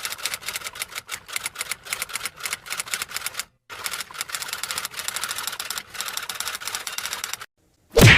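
Typewriter sound effect: mechanical typewriter keys clattering in quick, irregular strokes, with a brief pause partway through, then a single loud thump near the end.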